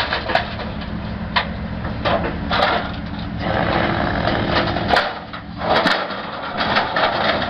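Heavy vehicle engine running steadily, with a series of sharp knocks and cracks over it. The engine sound drops away briefly a little after five seconds in.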